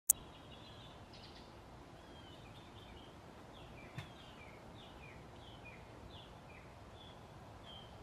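Small birds chirping: short, high chirps, many falling in pitch, two or three a second over a faint outdoor hiss. A loud sharp click comes right at the start and a fainter click about four seconds in.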